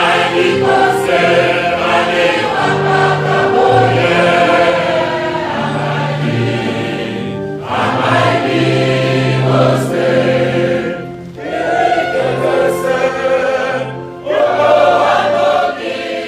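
Choir singing: several voices holding long notes in phrases, with short breaks between them.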